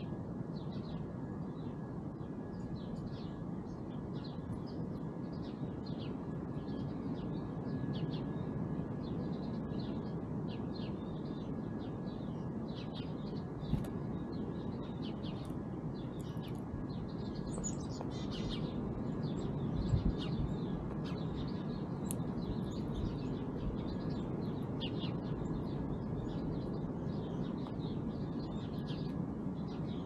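Small songbirds chirping repeatedly in short calls, over a steady low rumble of background noise, with a couple of brief knocks partway through.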